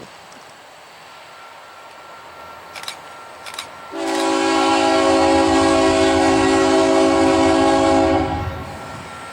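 Freight locomotive air horn blowing one long, steady chord-like blast of about four seconds, starting about four seconds in and cutting off a little after eight seconds. A couple of short clicks come just before it.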